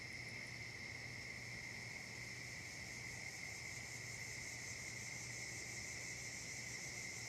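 Steady chorus of crickets and other insects: a continuous high trill at several pitches at once, unchanging throughout.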